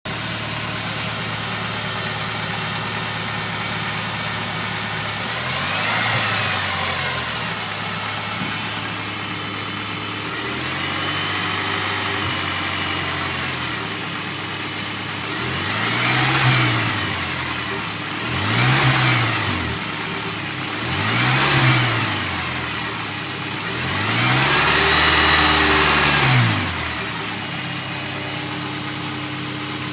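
Honda S2000 inline-four idling, then revved six times in free-revving blips, the last held longer near the end. The owner is asking about a humming or whining noise in this sound.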